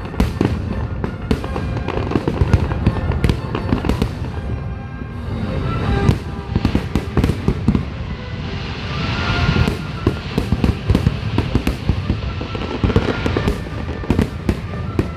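Fireworks finale: a rapid, unbroken barrage of aerial shell bursts and crackle, with a stretch of hissing crackle about nine seconds in.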